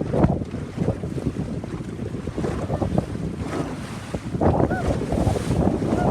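Wind buffeting the microphone on a small boat at sea, with waves splashing against the hull, in an uneven gusty rush.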